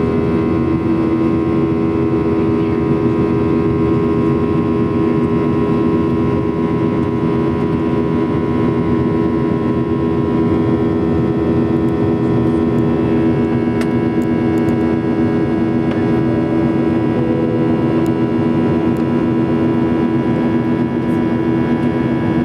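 Steady jet cabin noise inside a Boeing 737-800 in flight: an even rush of airflow under a constant engine hum made of several steady tones, with a few faint clicks in the second half.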